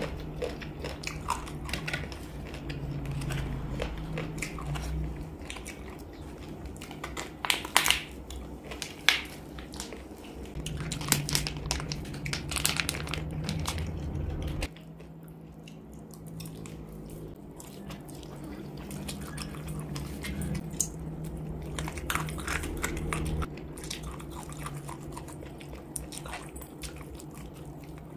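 Chewing and biting on chicken feet, with scattered sharp crunches and clicks, the loudest about eight to nine seconds in, over a steady low hum.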